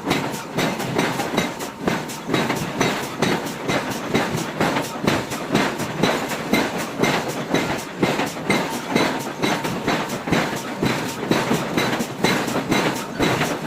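Forging hammer striking a hot iron block in a rapid, steady run of blows, several a second.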